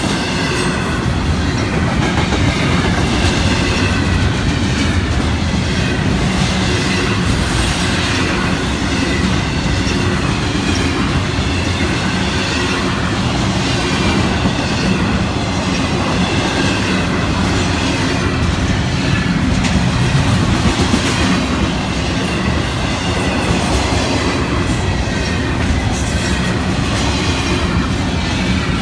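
Florida East Coast Railway intermodal freight train rolling by: a steady rumble of steel wheels on rail with clickety-clack over the joints and faint high wheel squeal.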